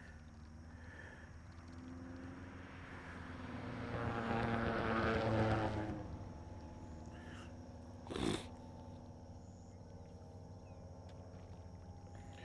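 A motor vehicle's engine and tyre noise passing by, swelling over a few seconds and then fading, over a steady low engine hum. A single sharp knock comes a couple of seconds after it fades.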